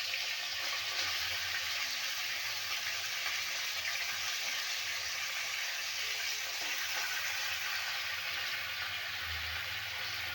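Raw chicken pieces sizzling steadily as they fry in hot oil, with nothing else yet in the pan.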